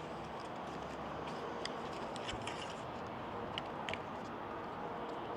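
Steady background hiss of room tone with a few faint, short clicks, about a second and a half in and twice near four seconds.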